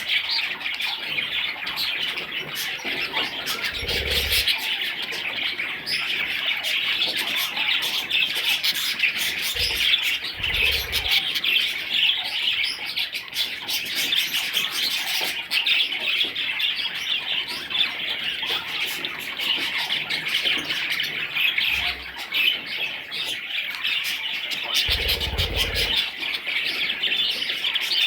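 A group of young budgerigars chirping and chattering non-stop, with a few dull low bumps now and then.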